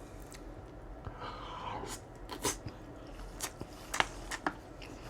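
Close-miked chewing of food, with a soft wet stretch early and several short sharp crunches and mouth clicks scattered through the second half.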